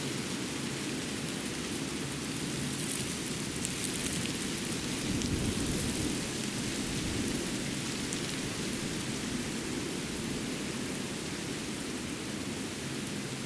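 Winter forest ambience: a steady rushing noise with a low rumble and a high hiss, swelling briefly about five seconds in, with a few faint ticks.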